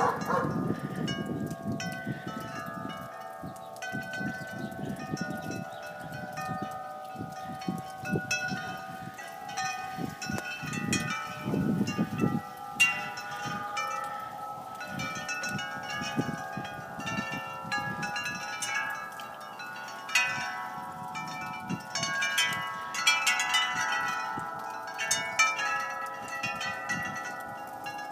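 Wind chimes ringing: many notes at different pitches struck over and over and ringing on, with an uneven low rumble underneath, mostly in the first half.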